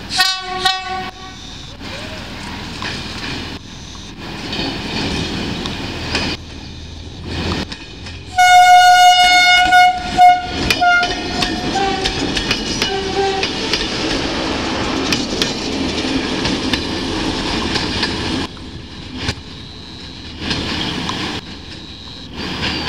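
Alsthom 9600-series diesel railcar pair pulling away. A short horn blast comes near the start and a long, loud horn blast about a third of the way in. Then the railcar runs past with a steady rumble of engine and wheels and a clickety-clack over the rail joints.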